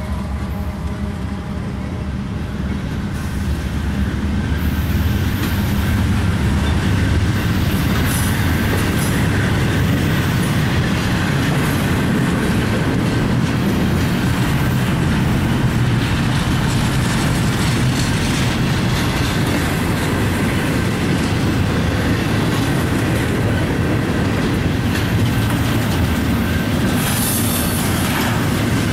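Double-stack container cars of a freight train rolling past, a steady rumble and clatter of steel wheels on the rails that grows louder about four seconds in. The diesel locomotive's engine drone fades out in the first few seconds.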